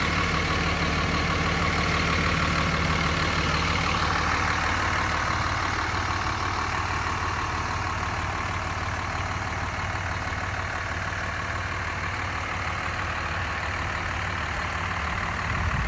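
Dodge Ram 2500's 5.9-litre Cummins 24-valve turbo diesel inline-six idling steadily, easing slightly quieter over the first several seconds.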